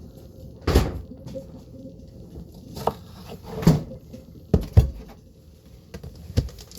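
About six separate knocks and thuds of kitchen things being handled, set down and shut, two of them close together a little past the middle.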